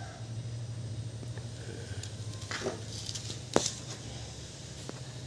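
A few sharp clicks and knocks from hand tools working a strap band onto a CV joint boot, the loudest about three and a half seconds in, over a steady low hum.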